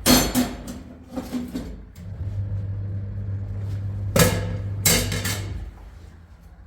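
Several sharp knocks and clatters in clusters, at the start, about a second in and again around four to five seconds in, with a steady low hum between them.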